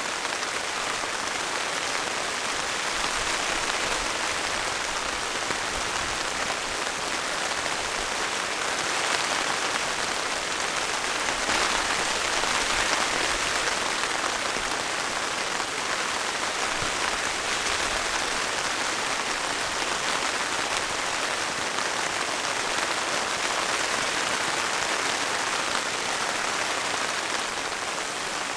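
Steady rain falling, a little heavier about ten seconds in.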